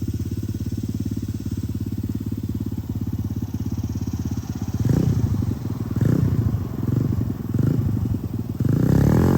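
Tao Tao DB17 125cc four-stroke single-cylinder pit bike engine idling evenly, then revved in four short throttle bursts from about five seconds in, the last the loudest.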